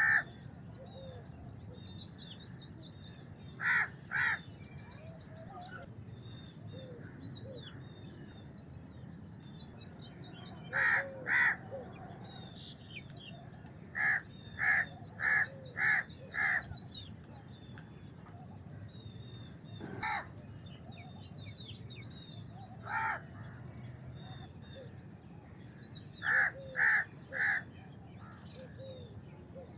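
House crows cawing, harsh short calls given singly or in quick runs of two to five, the longest run of five about fourteen seconds in. Behind them small birds chirp and twitter continuously.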